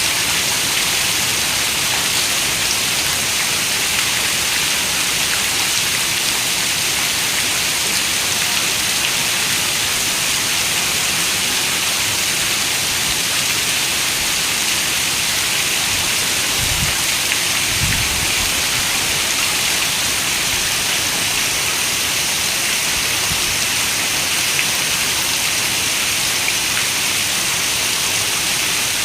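Steady rainfall, an even hiss throughout, with a brief low rumble of thunder a little past the middle.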